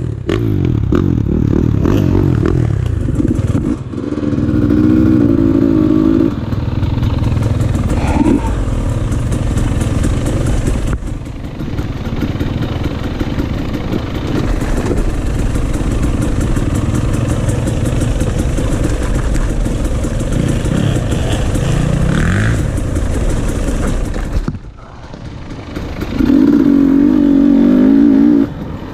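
Dirt bike engines running on a trail, idling and blipping the throttle, with two stronger revs about five seconds in and again near the end.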